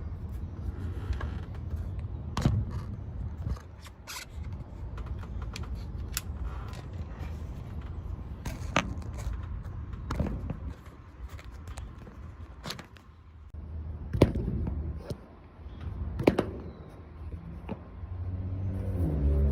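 Hand-tool work on a condenser fan motor's sheet-metal electrical cover: scattered sharp clicks, knocks and scrapes every second or two, the loudest about fourteen seconds in, over a steady low rumble.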